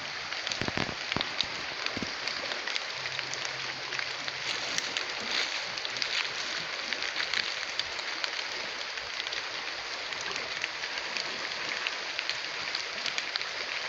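Steady rain falling, with many small drop hits ticking through an even hiss.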